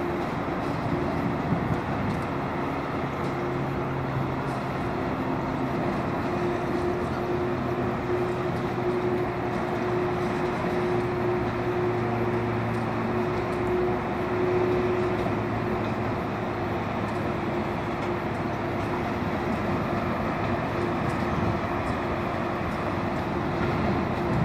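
Loaded coal hopper cars of a freight train rolling slowly past, a steady rumble of wheels on rail with a low steady hum.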